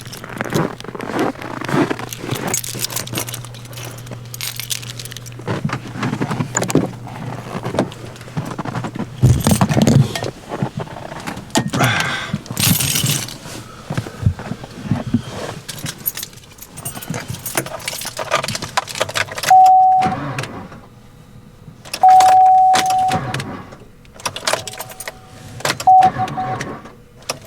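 A bunch of keys jangling and clattering, with handling knocks and rattles around a vehicle. In the last third, a steady electronic warning tone sounds on and off in short spells.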